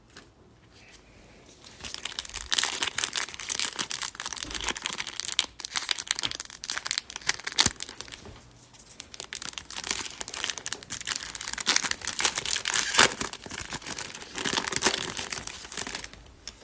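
Foil wrapper of a baseball trading-card pack crinkling and tearing as the pack is opened, starting about two seconds in and dying down near the end.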